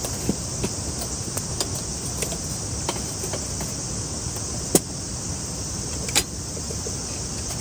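Wood campfire crackling, with irregular small pops and two louder snaps in the second half, over a steady high hiss of insects.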